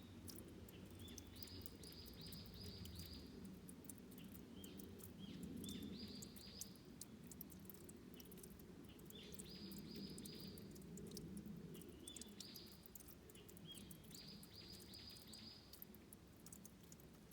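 Faint water running at a stream's headwaters, with fine ticks over it. A songbird sings a short phrase of a few quick high notes, each a step higher, repeated about every three to four seconds.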